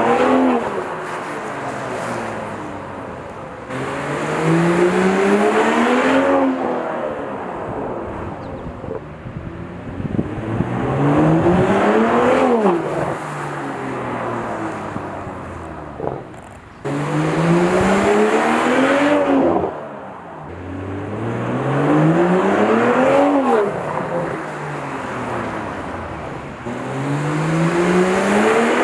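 BMW M340i's turbocharged 3.0-litre inline-six with the M Performance exhaust, accelerating hard in repeated pulls. The revs climb for a couple of seconds and then drop sharply, about six times, with quieter running between the pulls.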